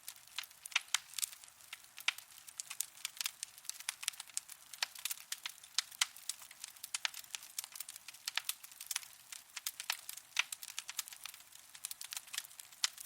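Wood fire burning in a fireplace, crackling with irregular sharp pops, several a second, over a faint hiss.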